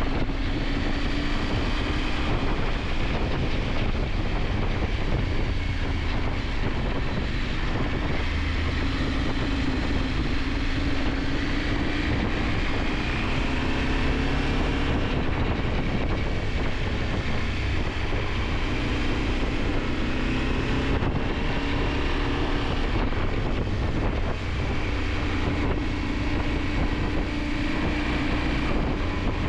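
KTM 890 Adventure's parallel-twin engine running under way, its pitch rising and falling several times with the throttle, with wind rushing over the camera microphone.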